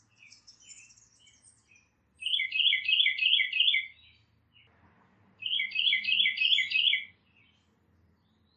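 A songbird singing two bouts of a quickly repeated two-note phrase, each of about six repeats, with faint high chirps from other small birds between them.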